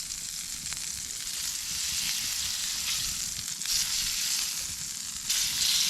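Food sizzling and spitting in hot fat over a campfire, a dense crackling hiss that swells and jumps louder near the end.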